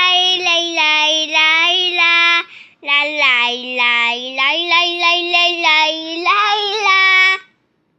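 A high voice singing alone without accompaniment, holding long notes. One phrase runs about two and a half seconds, then after a brief pause a longer phrase dips lower in pitch and ends about seven and a half seconds in.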